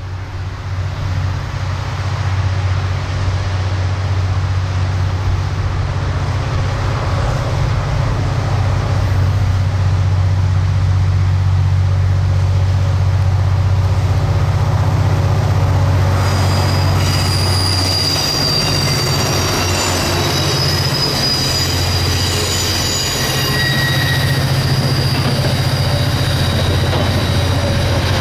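Two KiwiRail DFB-class diesel-electric locomotives working hard up a steep grade with a long, heavy freight train, their engines a deep, steady drone that builds as they approach and pass. After they pass, about two-thirds of the way in, the wagons' wheels squeal on the curve over the rumble of the passing train.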